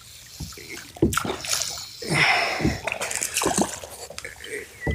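Hooked smallmouth bass splashing at the water surface beside the kayak as it is brought in, in several irregular splashes.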